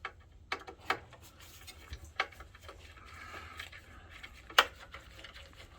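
A few small sharp clicks and taps as a screw is handled and driven in with a hand screwdriver, with one louder click near the end.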